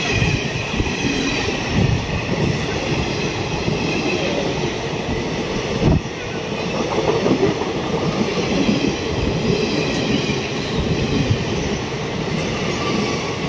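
Express train passing close by at speed: a dense rumble of coaches and wheels on rail, with intermittent clatter over the rail joints and a wavering high-pitched squeal from the wheels.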